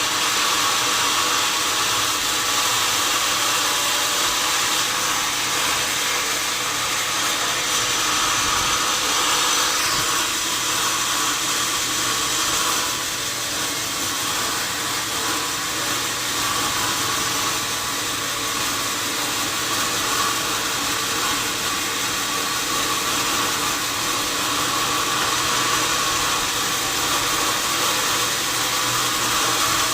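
Sawmill saw and machinery running steadily, a constant machine hum under a broad hiss, easing slightly midway and picking back up near the end.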